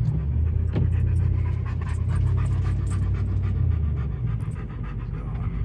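Chevrolet Tahoe's V8 engine running at low, steady revs, heard from inside the cab as the truck crawls along a slick mud road, with many quick irregular ticks over the drone.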